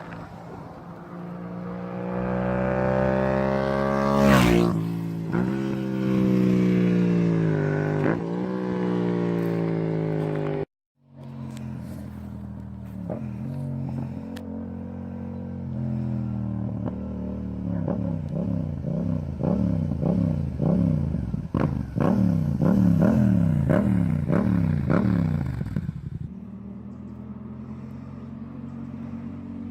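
Yamaha MT-07's 689 cc parallel-twin engine through an aftermarket exhaust, revved up and let fall, with a sharp crack at the top of the first rev. After a brief cut to silence about eleven seconds in, the engine idles and is blipped rapidly many times, then settles back to idle near the end.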